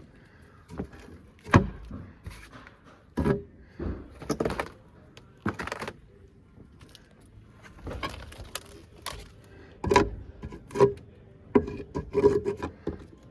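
Irregular knocks, thuds and short scrapes of wood framing being worked by hand during demolition of a rotten wall, with rotten plywood and nailed lumber being pulled loose. The sharpest knocks come about a second and a half in and again around ten seconds in.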